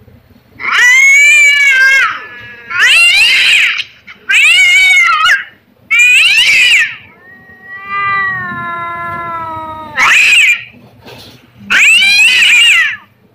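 A cat yowling loudly over and over: about seven long, wavering cries with short gaps between them, and one longer, steadier, lower cry in the middle.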